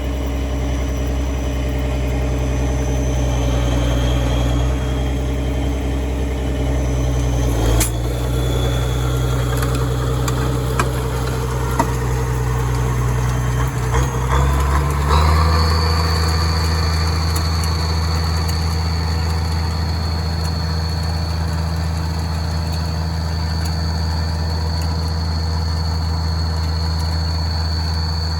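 Tractor engine running steadily, towing a no-till seed drill, with a few knocks and rattles along the way. About halfway through, the engine note shifts higher and a thin high whine joins it.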